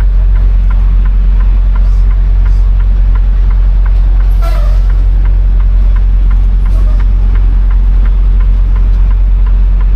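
Tractor-trailer's diesel engine running with a steady low rumble, heard close up, with faint light ticks recurring throughout.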